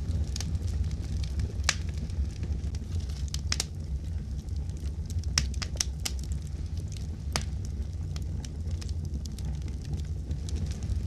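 Wood fire crackling in a fireplace: a steady low rumble of flames with irregular sharp pops and snaps, about one a second.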